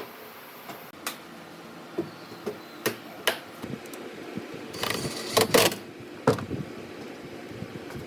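Irregular knocks and clicks, about a dozen, with a denser clatter about five seconds in, over a steady low hum.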